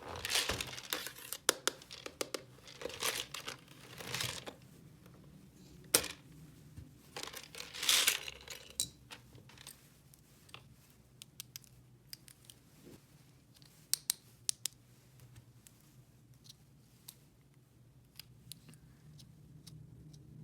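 Packaging being crinkled and torn open by hand, in several short rustling bursts with light clicks in between, then only a few scattered clicks in the second half.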